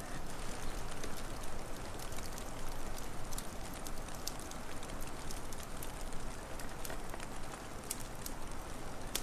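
Wood fire crackling: scattered sharp pops and snaps over a steady hiss and low rumble.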